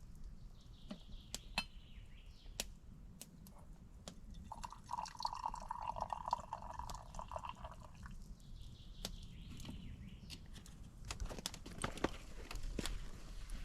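Liquid being poured for about three seconds, midway, among scattered small clicks and knocks.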